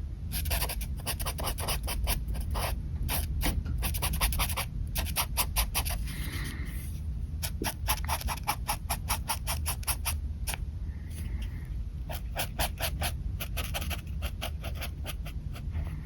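Pen nib scratching on paper in runs of quick, short hatching strokes, with brief pauses about five and ten seconds in.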